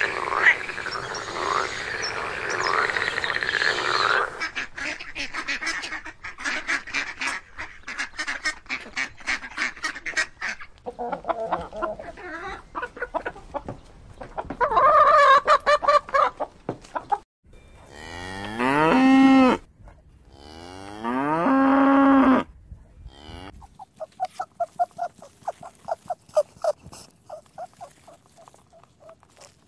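A run of farm-animal calls one after another: a noisy stretch and rapid clicking first, then goose honking, then two long rising cow moos, and near the end a quick series of short repeated calls.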